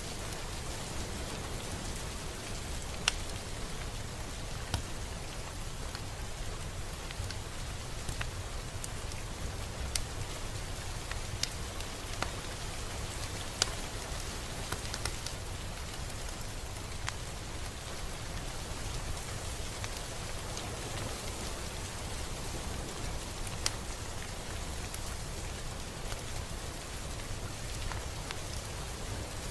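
Steady rain falling, an even hiss with individual drops ticking sharply on a surface every second or two.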